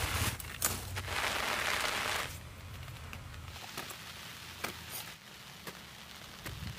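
Rain falling, heavier for the first two seconds or so, then softer with scattered sharp ticks.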